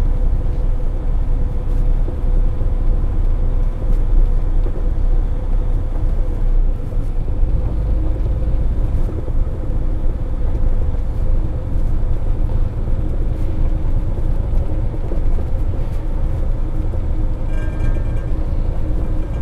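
Semi truck running bobtail without a trailer, heard from inside the cab: steady engine and road rumble with a faint constant hum.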